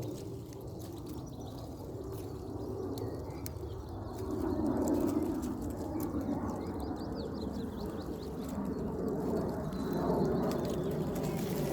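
Faint bird calls over a low rumbling noise that swells about four seconds in and again near the end.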